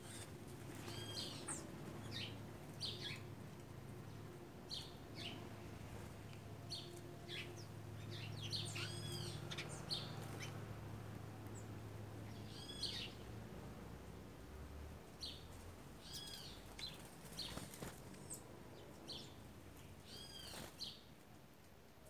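Birds calling with short, arched high chirps at irregular intervals, roughly one every second or so. A low steady hum sits underneath and fades about two-thirds of the way through.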